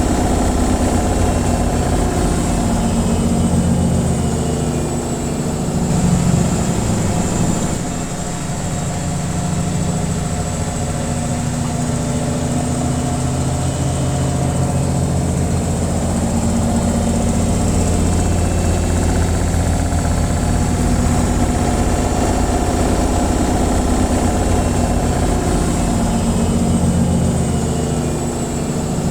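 Washing machine on its spin cycle: a steady hum with a low drone and a thin high whine above it, swelling and easing slightly.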